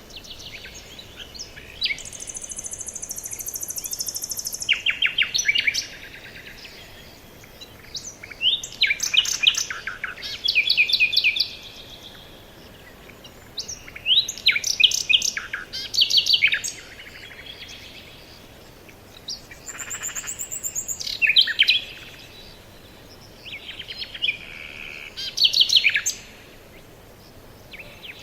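Forest birds singing: several bursts of rapid chirping notes a few seconds apart, over a steady hiss. About two seconds in there is a high, buzzy trill.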